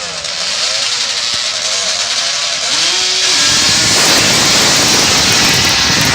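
Quad bike engine revving up and down with each gear, then getting much louder and harsher from about halfway in as it races past close by.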